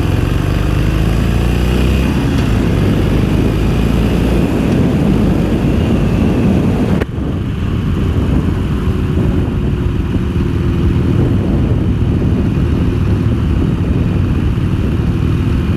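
Harley-Davidson Iron 883's air-cooled V-twin running on the stock exhaust while the motorcycle is ridden, with its pitch rising over the first few seconds as it accelerates, over steady wind and road noise. The sound drops briefly about seven seconds in.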